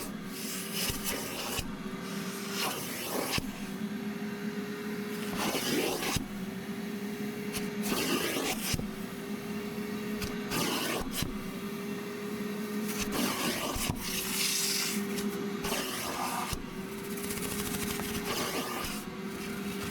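Shop vacuum running through an extractor wand in a dry suction pass over a fabric car seat, the wand's strokes over the upholstery breaking its steady hum with a rushing scrape about every two and a half seconds.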